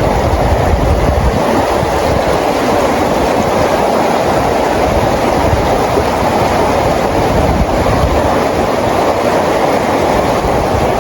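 Steady, heavy rain: an even, unbroken wash of falling water with a low rumble underneath.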